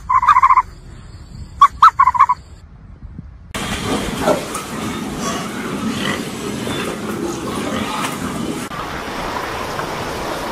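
Two short, loud animal calls, the second preceded by a few sharp clicks, then pigs grunting and squealing together in a pen, giving way near the end to the wash of breaking surf.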